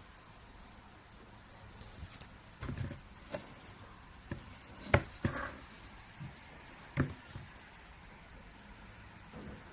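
Handling knocks and clicks: a string of sharp knocks over about five seconds, the loudest about halfway through, then quiet room tone.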